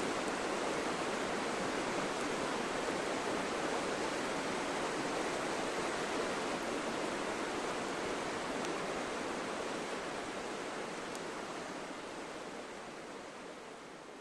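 Steady rushing noise, like running water or wind, that fades away over the last few seconds.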